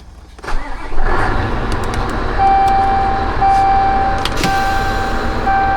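Scania R560 truck's V8 diesel engine starting and settling into a steady idle. From about two seconds in, a steady high electronic warning tone sounds, broken briefly about once a second.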